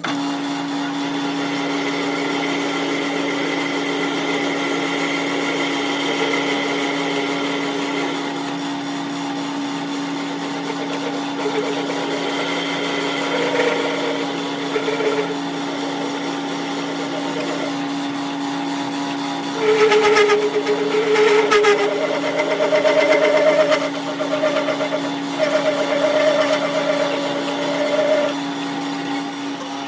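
Workshop machine running with a steady hum. From about twenty seconds in, louder tones come and go over it.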